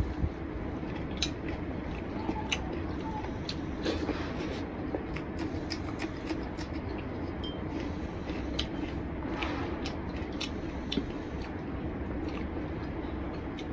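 Close-up chewing and biting of a man eating rice and chicken curry by hand, heard as scattered short sharp mouth clicks, over a steady low hum.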